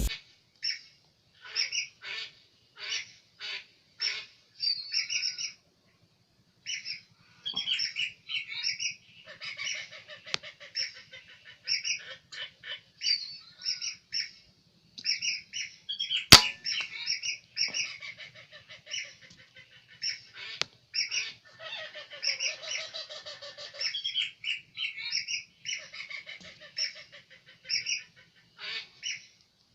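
Whistling ducks calling: many short, high whistled calls in runs with short gaps. One sharp crack sounds about sixteen seconds in.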